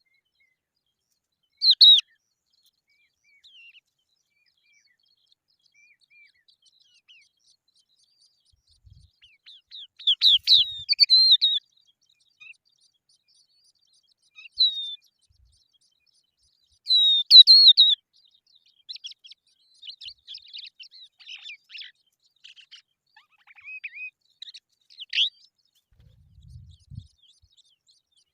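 Skylarks chirping in short, high bursts, with a few louder clusters and then a run of fainter, quick chirps, separated by quiet gaps.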